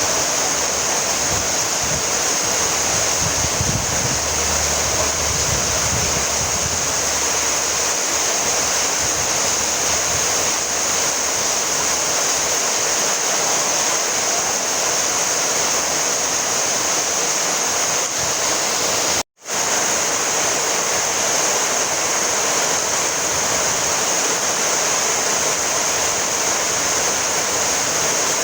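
Steady, dense rainfall as an even hiss, with a momentary dropout to silence about two-thirds of the way through.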